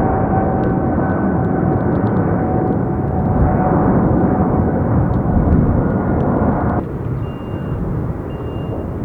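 Boeing 777 jet engines running loud and steady, a dense rumble with a steady whine on top; about seven seconds in the sound cuts off abruptly to quieter jet engine noise.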